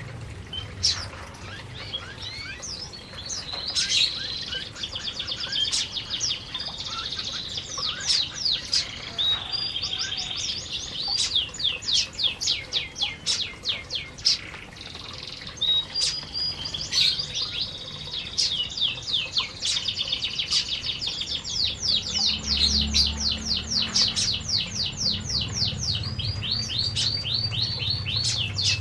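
Domestic canaries singing, with long, rapid rolling trills and chirps that overlap one another.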